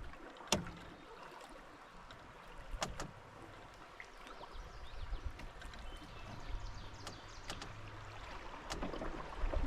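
A canoe being paddled on a river: the paddle dips and pulls through the water over a steady wash of moving water, with a few sharp knocks, one about half a second in, a pair around three seconds, and more near the end.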